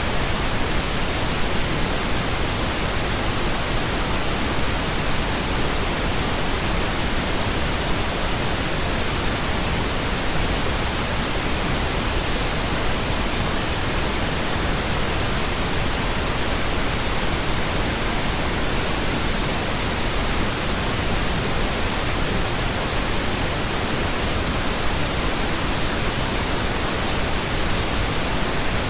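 Pink noise: a steady, even hiss spread across the whole frequency range, unchanging throughout.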